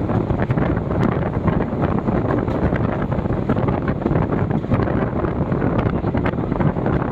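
Express train passing at speed: a steady loud rush of noise with many quick wheel clicks over the track, and wind buffeting the microphone.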